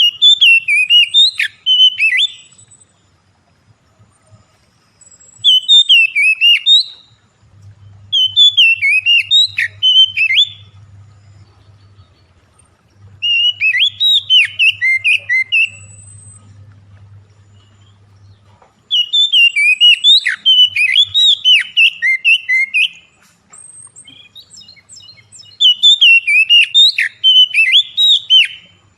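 A songbird singing in six loud bursts of rapid, sharply gliding notes, each burst one to four seconds long, with short pauses between them.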